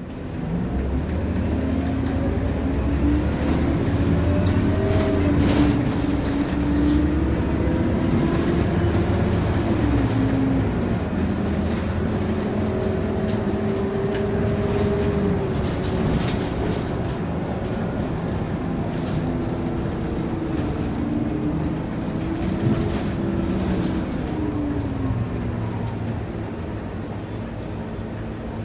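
Scania K230UB city bus's five-cylinder diesel engine running under way, heard from inside the cabin over a continuous low road and body rumble. Its pitch rises and drops several times as the bus accelerates and changes gear.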